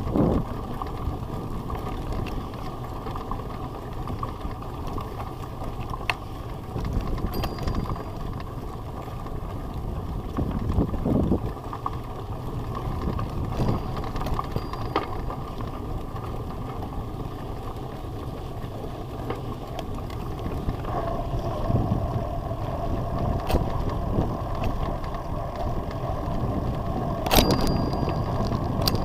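Bicycle being ridden: a steady rumble of tyres and riding noise, with scattered clicks and rattles and a sharper knock near the end.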